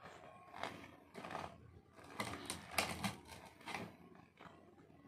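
Close-up chewing of a fried bakwan vegetable fritter, with forks cutting and scraping at the food in the bowl: an irregular run of soft crunches and small clicks.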